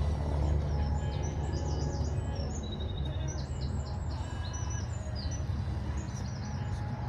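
Small birds chirping in quick, repeated short calls over a steady low rumble.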